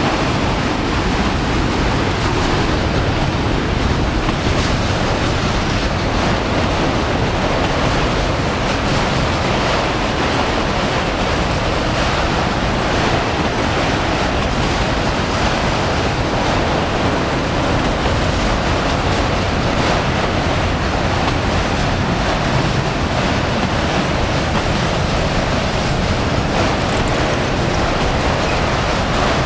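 Freight train of enclosed autorack cars rolling past at close range: a steady, loud noise of wheels running on the rails.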